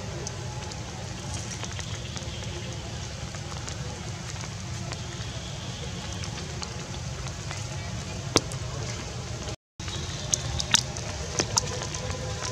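Light rain falling on a pond and wet leaves: a steady hiss over a low rumble, with a few sharp drip taps in the last few seconds.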